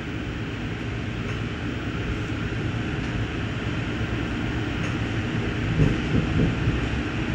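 Steady rumble of a passenger train rolling along the track, heard from inside the car, with a few louder low knocks about six seconds in.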